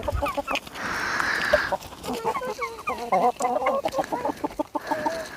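A flock of chickens clucking in many short, quick calls while feeding on vegetable scraps, with a short burst of rustling noise about a second in.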